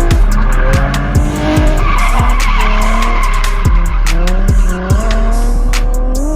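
Drift car's engine revving, its pitch climbing in the second half, with tyres squealing and skidding in the middle. A hip-hop beat with a deep kick plays underneath.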